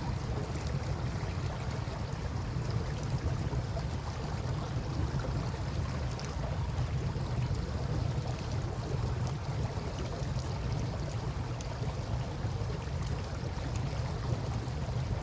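Campfire crackling with scattered small pops over a steady low rush of flowing river water.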